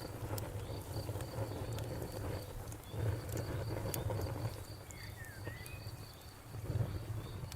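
Campfire crackling, with scattered sharp pops over a low steady rumble. A cricket chirps steadily alongside, about three chirps a second.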